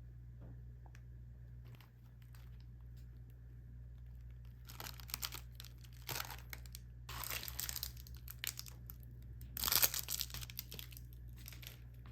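Plastic food packaging crinkling and being torn open in several separate bouts, the loudest about ten seconds in, over a low steady room hum.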